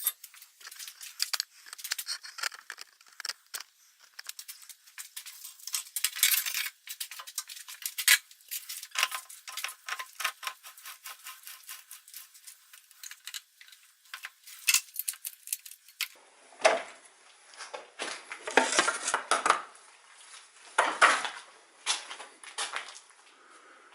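Steel tools and lathe chuck parts clinking and clattering as they are handled, an irregular run of sharp metallic clicks and taps; about two-thirds of the way through the clatters become fuller and heavier.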